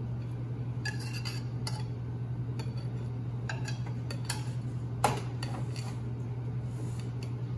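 A utensil clinking and scraping against a mixing bowl as birdseed and flour are stirred together with a wet mixture, in irregular clinks with a sharper knock about five seconds in. A steady low hum runs underneath.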